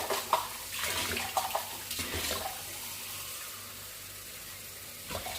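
Water running from a kitchen tap in a steady flow, with a few knocks in the first two seconds or so.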